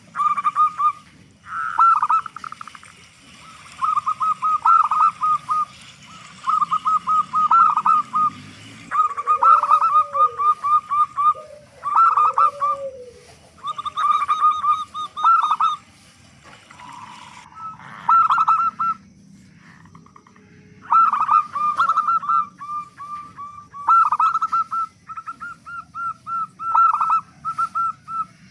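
Zebra dove (local perkutut) cooing: repeated phrases of quick staccato notes, one phrase every second or two with short pauses between, running almost without a break near the end. Two lower, rounder notes sound in the middle.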